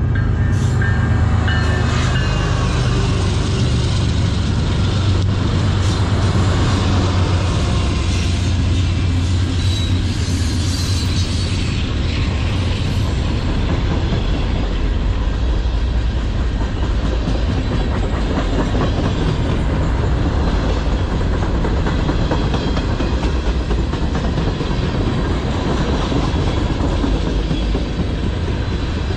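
Freight train passing close by, its lead diesel locomotives' engines giving a deep drone for roughly the first ten to twelve seconds. Then hopper and tank cars roll past with a steady rumble and the clickety-clack of wheels on the rails.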